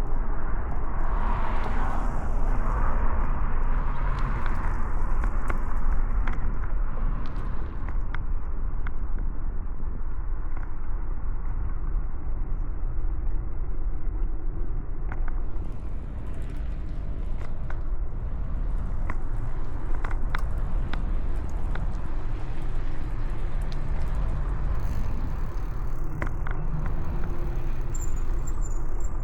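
Steady low rumble of wind and road noise from a bicycle riding on city streets. A car passes in the first few seconds, and light clicks and rattles are scattered through.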